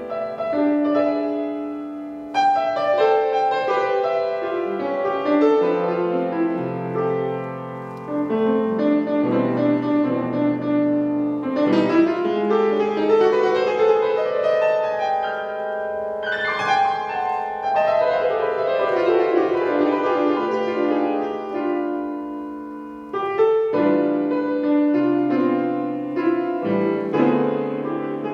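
Piano improvisation: flowing chords and melodic runs, with loud new chords struck about 2, 12, 16 and 23 seconds in.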